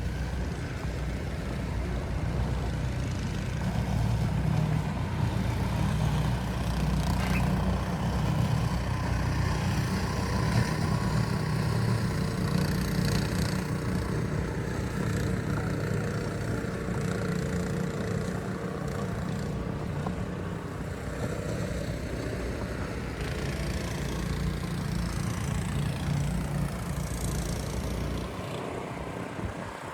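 A motor vehicle's engine runs in a steady low rumble with city street noise, and fades near the end.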